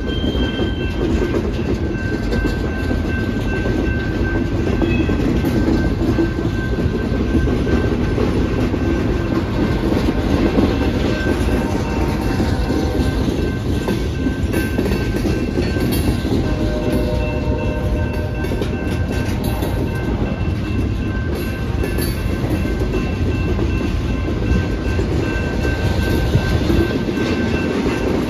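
Loaded open hopper cars of a freight rock train rolling steadily past a grade crossing: a continuous rumble of steel wheels on the rails with clickety-clack over the joints. A crossing bell rings steadily over it, and faint wheel squeals come through around the middle.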